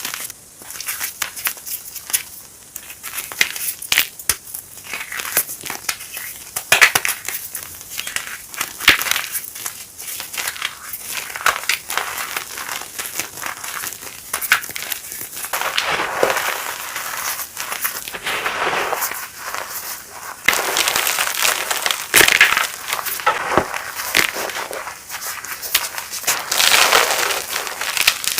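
Chunks of reformed gym chalk being crushed and crumbled by hand: a run of dry, irregular crackles and crunches, with longer grinding crushes in the second half.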